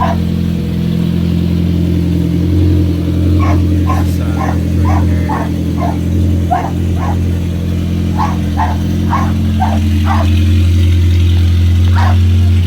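Volkswagen Dasher's swapped 1.8 turbo four-cylinder idling steadily. About three seconds in a dog starts barking over it, in quick repeated barks of about two a second.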